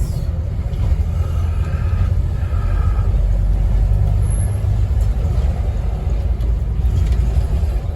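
Scania N270UD OMNICity double-decker bus driving along, heard from inside the passenger cabin: a steady low engine and road rumble.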